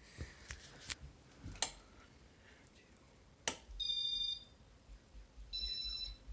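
Casablanca Panama 5 ceiling fan's control beeping twice, each a short electronic tone about half a second long, some 1.5 s apart, as the fan steps up through its speed cycle. A few sharp clicks come before the beeps.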